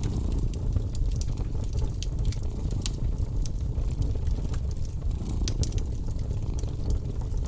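A cat purring, a steady low rumble, under a fireplace crackling with scattered sharp pops.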